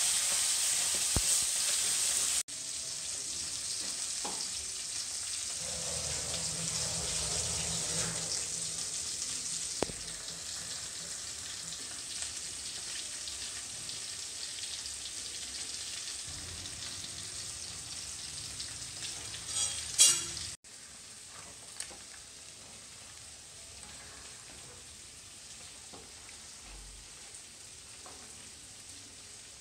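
Steady sizzle of food frying, cut off abruptly about two and a half seconds in and again about twenty seconds in, much fainter after the second cut.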